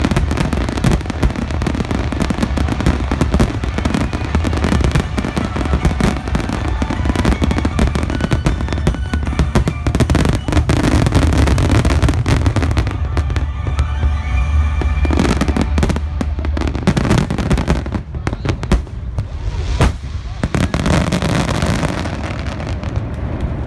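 Fireworks display: a dense, continuous run of booms and crackling bursts over a heavy low rumble, thinning briefly around the middle.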